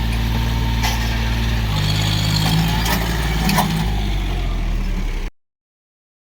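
John Deere 5105 tractor's three-cylinder diesel engine running steadily, with a few sharp clicks over it; the sound stops abruptly a little over five seconds in.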